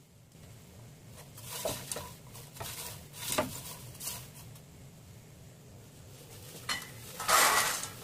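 Popped popcorn being scooped out of a pan into a bowl: a spoon knocking and scraping against the pan in short, scattered clatters, with one louder rustling rush lasting about half a second near the end.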